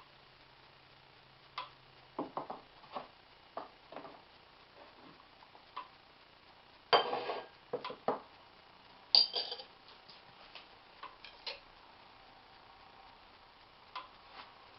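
Kitchenware being handled: scattered light clicks and clinks, with two louder clatters about 7 and 9 seconds in.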